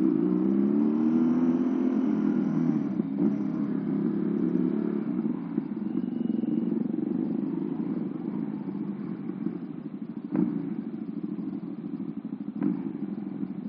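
A motorcycle's modified two-cylinder engine running while riding, its pitch rising a little in the first few seconds and then settling under steady road and wind noise. There are two sharp clicks near the end.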